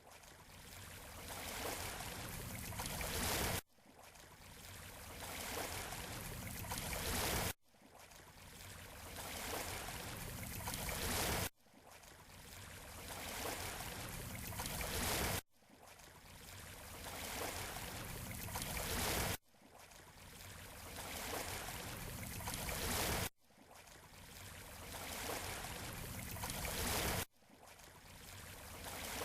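Beach surf: a rush of wave noise that builds over three to four seconds and then cuts off abruptly, over and over at an even pace of about one swell every four seconds.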